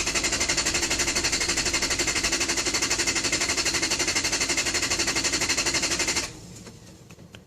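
Lexus LS400's starter solenoid chattering: a rapid, even machine-gun clicking, about a dozen clicks a second, as the key is held to start, while the engine does not crank. The clicking stops about six seconds in.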